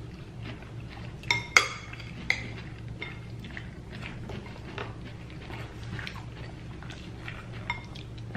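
Forks clinking against plates and bowls while salad is eaten: a few sharp clinks in the first few seconds, then many lighter ticks, over a low steady hum.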